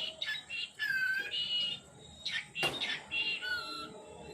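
Lovebirds chirping in short, high whistled notes, some sliding in pitch, with a sharp click about two and a half seconds in.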